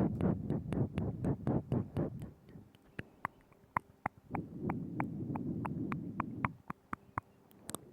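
Close-miked ASMR mouth sounds: wet tongue and lip clicks at about three to four a second. A low rumbling runs under them for the first two seconds and again from about four to six and a half seconds in.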